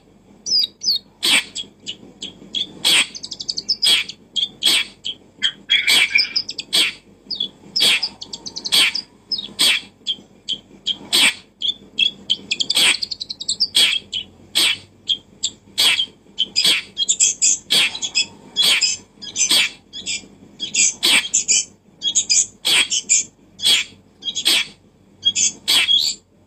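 Bird chirping and twittering, mixed with frequent sharp clicks or taps at irregular intervals of roughly one to two a second.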